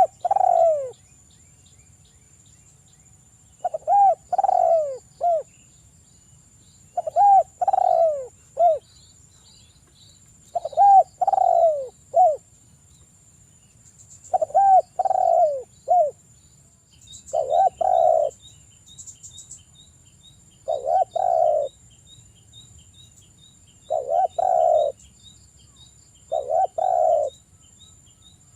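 Spotted dove (derkuku) cooing in a lively, sustained way: a repeated phrase of short descending coos, about every three seconds.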